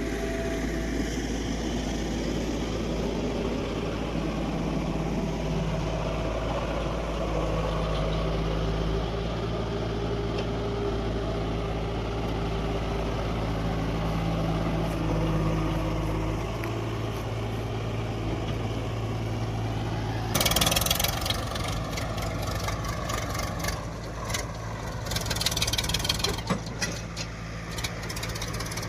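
Heavy diesel engines of a backhoe loader and tractor running steadily under load while soil is loaded, the engine note shifting in pitch a few times. About two-thirds of the way through comes a short loud rush of noise, and a longer one near the end.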